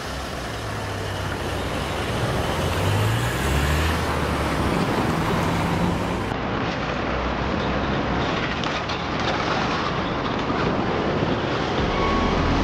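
Vehicle running: rumbling road or rail noise with an engine's pitch stepping up and rising over the first few seconds, then a sudden change to a steadier rumble about six seconds in.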